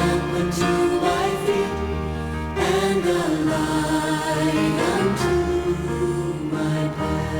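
Congregation singing a hymn chorus with instrumental accompaniment, slow held notes.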